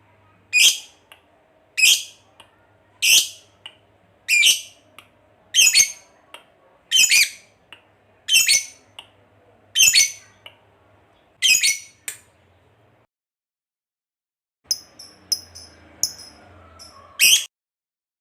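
Lovebird giving about nine sharp, shrill calls, one every second and a half or so. After a short pause come a few quick high chirps and one more loud call near the end.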